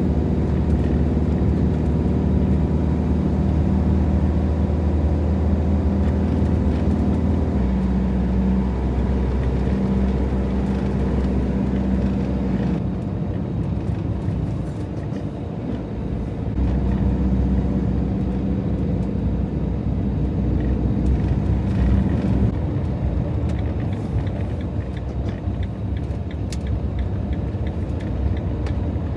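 Fiat Ducato van driving, a steady engine and road hum whose engine note changes pitch several times as it goes.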